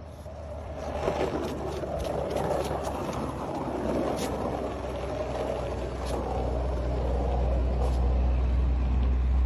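A motor vehicle running: a steady low rumble with a noisy hiss over it, growing gradually louder.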